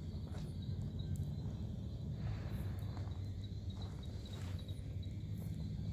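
Night insects, crickets, chirping in a steady high-pitched pulsing trill over a low steady rumble, with a few brief rustles.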